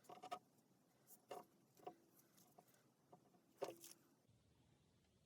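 Near silence, broken by four or five faint, short sounds in the first four seconds.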